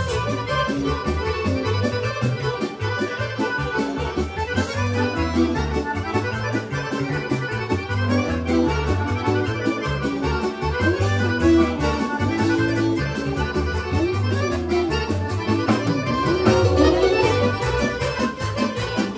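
Serbian folk kolo dance music played by a band with a fast, even beat and a stepping bass line.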